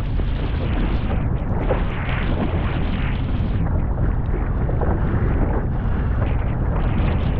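Wind buffeting the microphone on a small fishing boat: a steady low rumble with a hiss over it.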